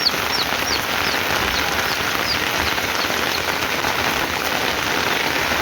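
Heavy rain falling steadily, with a run of short high chirps over the first half.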